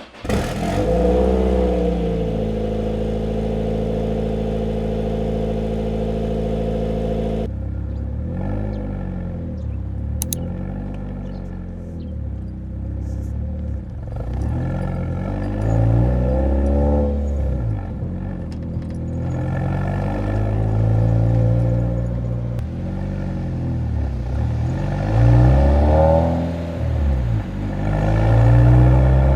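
Nissan 180SX's SR20 four-cylinder exhaust: the engine note drops to a steady idle, then from about seven seconds in it revs up and drops back again and again as the car accelerates and shifts while driving.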